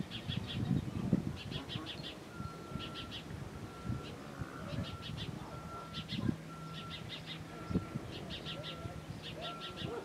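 A small bird chirping in quick bursts of three to five high notes, repeated about once a second, with a second, lower series of short evenly spaced piping notes joining about two seconds in.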